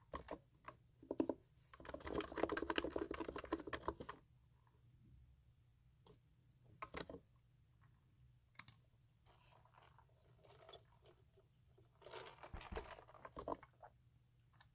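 Computer keyboard typing for ASMR: a fast run of key clicks about two seconds in, scattered single keystrokes, then another burst of typing near the end.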